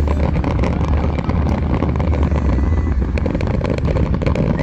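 Dense barrage of aerial fireworks: rapid, continuous bangs and crackling over a heavy low rumble.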